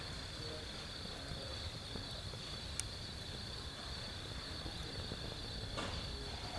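Steady high-pitched chorus of night insects trilling, over a low even rumble of background noise. A faint sharp click comes about three seconds in, and a weaker one near the end, like pops from a wood fire in a fire pit.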